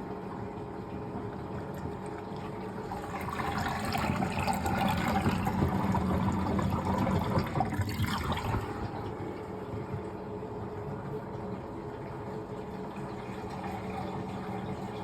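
Fisher & Paykel GW712 top-loading washing machine mid-cycle: water rushing and sloshing in the tub over a steady motor hum. The water noise swells louder about three seconds in and drops back suddenly after about five seconds.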